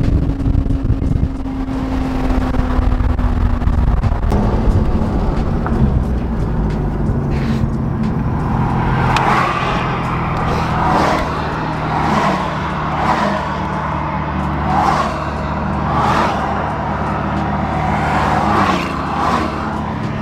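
Porsche 911 Turbo's flat-six engine running at road speed, with steady road and wind noise; the engine note shifts pitch a few times.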